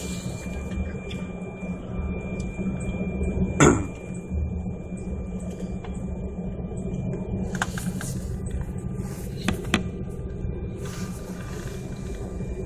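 Steady hum of an airliner cabin waiting on the ground, with a constant low drone and faint steady whine tones. About a third of the way in, a short squeal falls sharply in pitch, and a few light clicks follow later.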